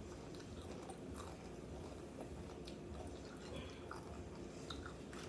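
Faint chewing and small mouth and utensil clicks of someone eating, over a low steady room hum.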